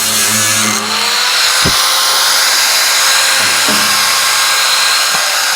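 Electric power tool working on a steel barrel: its motor spins up about a second in and then runs steadily with a harsh metal-working noise. A few short knocks come during the run.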